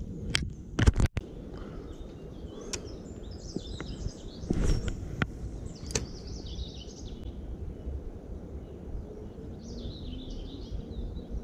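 Songbird singing in short chirping phrases over a steady low rumble of wind and outdoor noise, with a few sharp clicks and knocks about a second in, the loudest sounds here.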